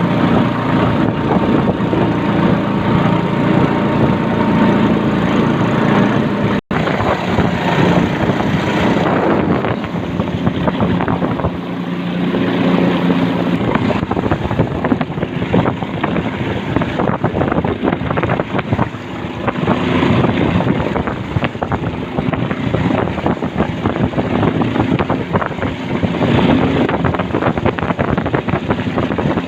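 Small boat engine running steadily while under way, with wind buffeting the microphone; the sound drops out for an instant about six seconds in.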